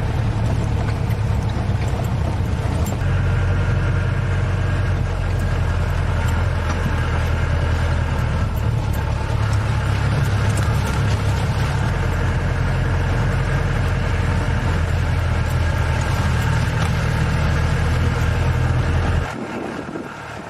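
Safari vehicle's engine running steadily with a low, even hum. The level drops sharply near the end.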